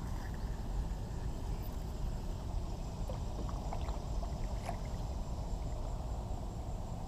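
Kayak paddled slowly through shallow water: paddle strokes and water dripping, with a few small splashes and drips between about three and five seconds in, over a steady low rumble.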